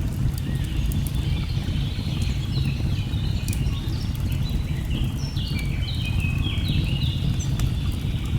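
Layered nature ambience: a steady low rush of falling water under birds singing in many short, stepped notes, with scattered sharp crackles of a wood fire.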